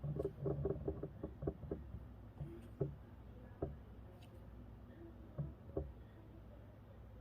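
Light clicks and knocks from small electronic parts being handled and pried apart: a quick run of taps in the first two seconds, then a few separate knocks.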